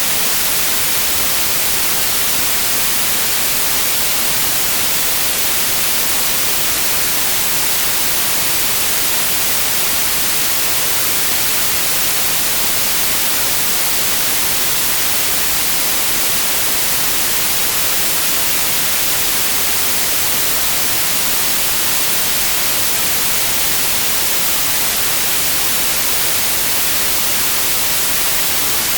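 Steady synthetic white noise, an even hiss that does not change.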